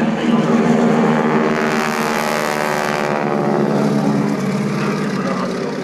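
Propeller-driven biplane flying past during an aerobatic display, its piston engine giving a loud, steady droning note. The engine sound swells in the first half and eases off slightly towards the end.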